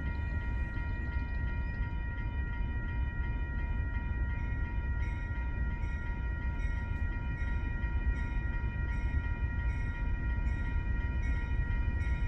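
Long CSX freight train approaching on diesel locomotive power, a steady low rumble growing slowly louder, with a steady high ringing tone above it and faint regular ticks about twice a second from about halfway in.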